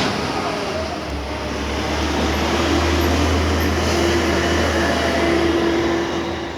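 Garbage truck running up close: a steady low engine drone with a steady whine over it, dropping off right at the end.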